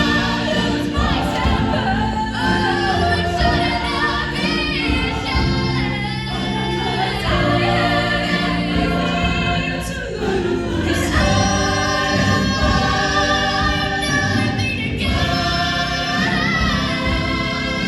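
Show choir singing a song in harmony, many voices holding long chords together.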